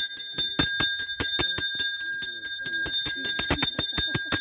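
A brass hand bell being rung rapidly and continuously, about six strokes a second, each stroke setting off the same bright ringing tones.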